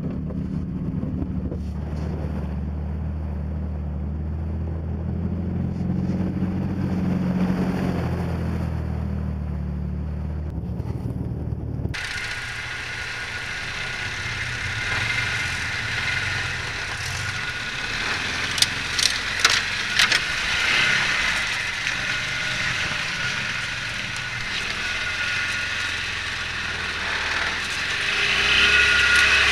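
Off-road pickup truck engine running low and steady. About twelve seconds in the sound cuts to a noisier stretch with a higher steady whine and a few sharp knocks.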